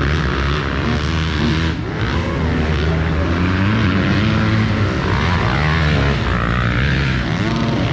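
Motocross bike engines revving as the bikes race, the pitch rising and falling with the throttle and gear changes.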